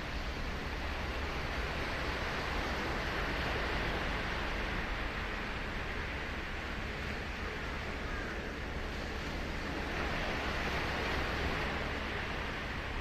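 Ocean surf breaking and washing up the shore, a steady rush that swells about three seconds in and again around ten seconds in.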